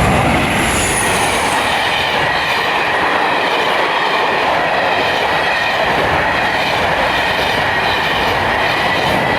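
Two trains passing close by at once, a pair of Class 197 diesel multiple units and a Class 40 and Class 47 hauled charter: a loud, steady rush of wheels on rail with a thin high whine running through it.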